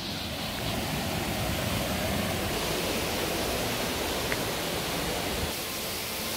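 Steady rush of falling water, even and unbroken. Faint music comes in near the end.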